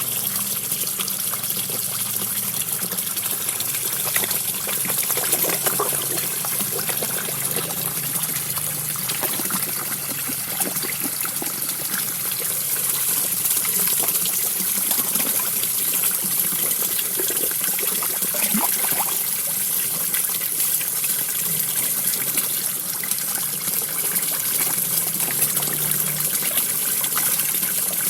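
Small garden waterfall trickling steadily into a koi pond, with many small scattered splashes and slurps from koi feeding at the surface.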